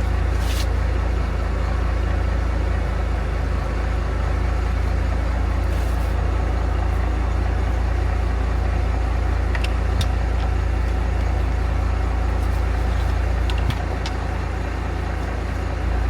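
A vehicle engine idling steadily, with a few light metallic clicks from tools and parts; the idle drops a little quieter about two seconds before the end.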